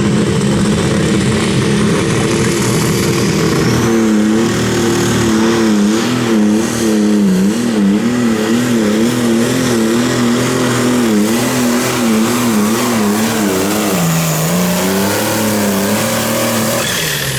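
A pulling tractor's engine running hard under load, its pitch wavering rapidly up and down, then dipping and rising again near the end.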